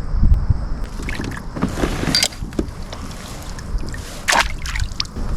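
Wind rumbling on the microphone aboard a kayak, with a few short sharp knocks and splashes around two seconds in and again past four seconds as a smallmouth bass is let back into the water.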